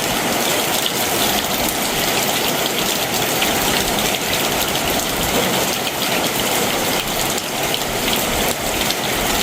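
Heavy summer monsoon rain pouring down in a steady downpour, a dense even hiss of raindrops spattering on surfaces.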